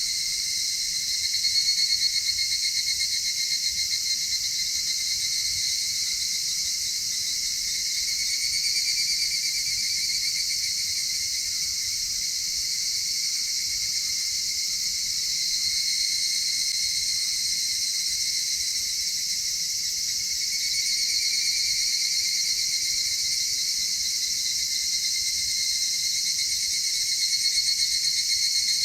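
Chorus of trilling insects singing steadily, with swells in loudness every several seconds.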